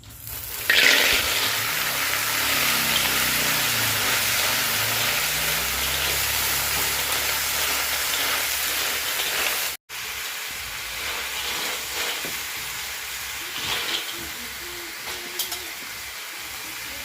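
Food frying in hot oil: a loud sizzle starts suddenly about a second in as food goes into the pan. After a short break midway, a quieter sizzle with occasional crackles follows.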